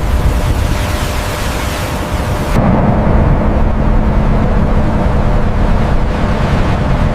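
A loud, full-range rumbling noise that cuts off suddenly about two and a half seconds in. It is replaced by a steady low engine drone with a constant hum.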